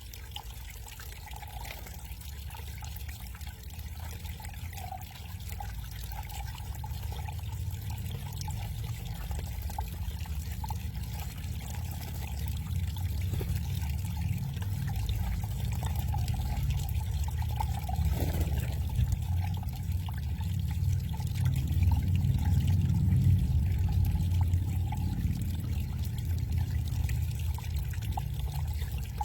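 Backyard garden water cascade pouring and trickling steadily, growing louder over the second half.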